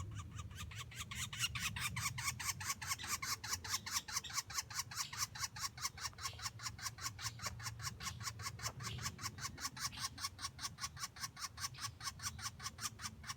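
A bird calling in a fast, even run of short sharp notes, several a second, over a low hum.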